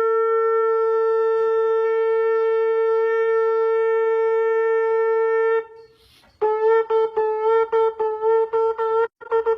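A shofar (ram's-horn trumpet) sounding one long steady blast for over five seconds. It breaks off, and after a short pause it sounds a quick run of short staccato blasts at the same pitch, about three a second.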